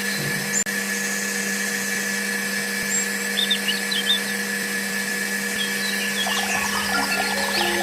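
A small electric power tool running steadily with a constant whining hum, with a few short high chirps over it.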